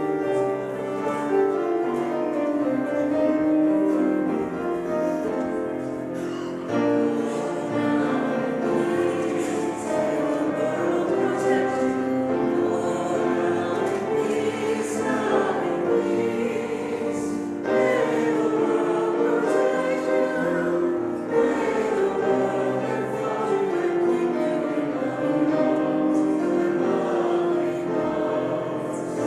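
Congregation singing a hymn together, a group of voices holding sustained notes in unison.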